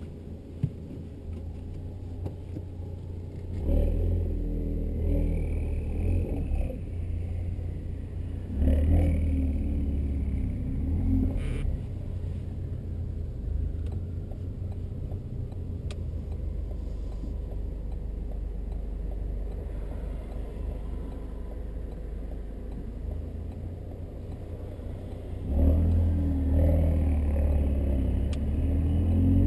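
Ford Focus RS mk3's turbocharged 2.3-litre four-cylinder through a Milltek Sport non-resonated decat exhaust, pulling hard three times (about 4 s in, about 9 s in, and near the end) with a lower cruising drone between. A single sharp crack comes at the end of the second pull.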